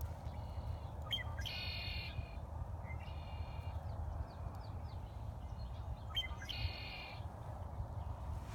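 Bird calls: four buzzy, harsh calls of about half a second each, spaced a second or two apart, with the second and fourth calls the loudest. A steady low rumble runs underneath.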